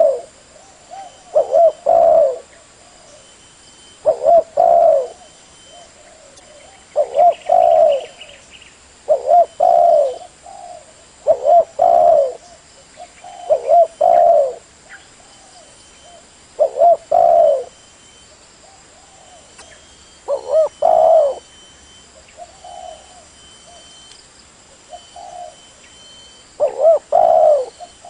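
Spotted dove cooing: the same short coo phrase repeated about every two to three seconds, with a longer pause between calls late on.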